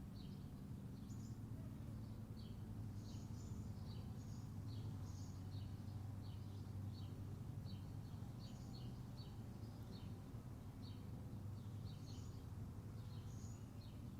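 Small birds chirping, short high calls repeated every fraction of a second, over a steady low hum.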